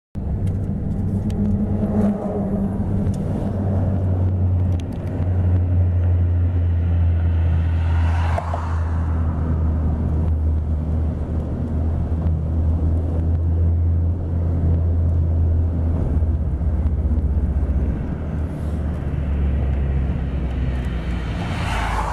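Car driving, a steady low engine and road rumble whose hum shifts in pitch a few times, with a brief swish about eight seconds in and another near the end.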